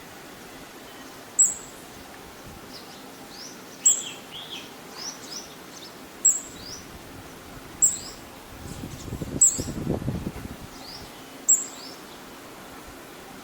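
Pale-billed flowerpecker giving sharp, very high-pitched chip calls, six single notes spaced a second or two apart, with fainter, lower twittering notes in between. A low rumbling noise comes in about two thirds of the way through.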